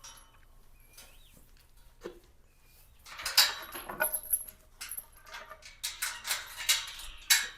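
Goats eating their morning grain: a quick run of crunching and clattering starts about three seconds in.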